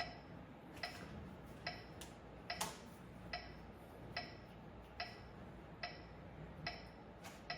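A metronome ticking evenly, a little more than one tick a second, with two of the ticks sharper and louder than the rest.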